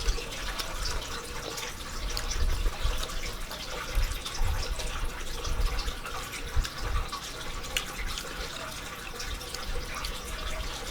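Close-up wet mouth sounds of eating: chewing with many small clicks and smacks.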